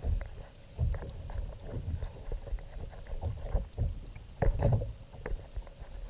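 Water knocking and lapping against a kayak's hull: irregular low thumps and small splashes, the loudest cluster about four and a half seconds in.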